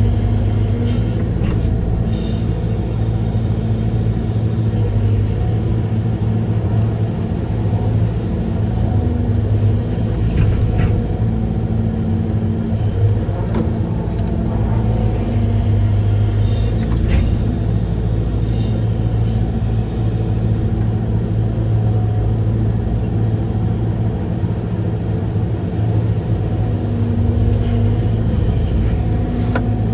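Diesel engine of an amphibious excavator running steadily, a constant low drone.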